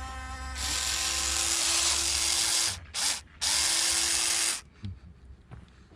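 Huina V4 RC excavator's electric motors whirring as it is worked: one long run, a brief blip about three seconds in, and another run that stops a little over halfway, followed by a faint knock.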